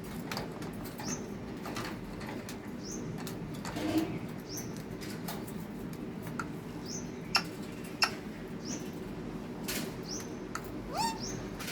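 Pet parrot making short high chirps and squeaks every second or so, with a quick rising whistle near the end. Sharp clicks come in between, two of them loud about half a second apart past the middle.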